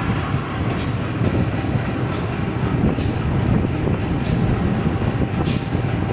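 Train moving out of a station: a steady low rumble, with short high hissing strokes about once a second.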